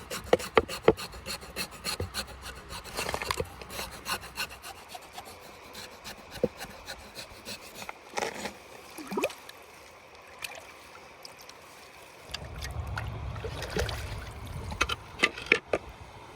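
Irregular scraping and rubbing against a hard surface, broken by many sharp clicks and knocks. A low rumble comes in about twelve seconds in and fades a couple of seconds later.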